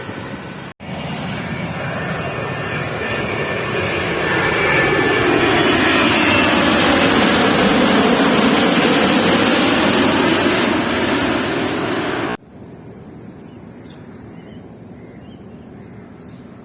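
Airliner flying low overhead on its landing approach. Its engine noise swells to a peak and then cuts off suddenly about twelve seconds in, leaving a quieter steady background.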